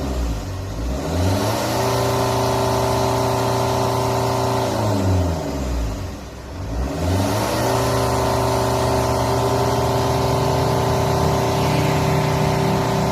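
Car engine held at full throttle at high revs to burn off soot. The revs drop twice, about a second in and again around six seconds in, and each time climb straight back up.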